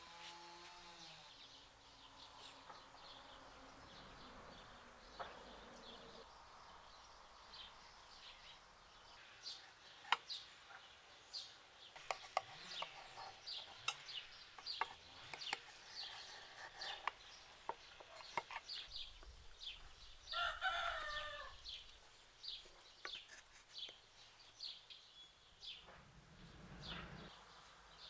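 Chickens calling in a farmyard: many short, sharp calls, with one longer call about two-thirds of the way through.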